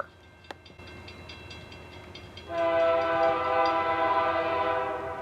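Locomotive air horn on a Union Pacific engine leading a freight train, sounding one long chord that starts about halfway through and is held for over two seconds, over faint train running noise.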